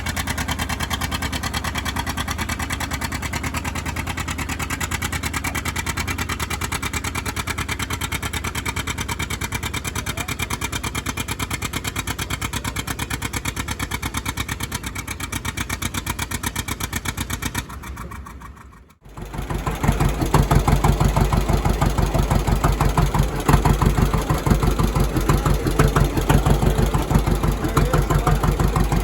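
Engines running steadily with a regular firing pulse. About two-thirds of the way in the sound drops away briefly, and a louder, deeper-running engine follows.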